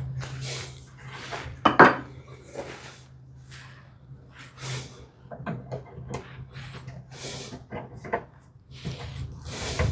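A hand tool paring and scraping a hinge mortise in cherry wood: a series of short, scratchy strokes, with a sharper knock about two seconds in.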